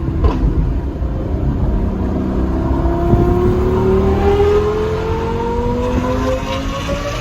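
Lamborghini Gallardo Superleggera's 5.0-litre V10 with an aftermarket exhaust, running loud; from about three seconds in its pitch climbs slowly and steadily as the revs rise.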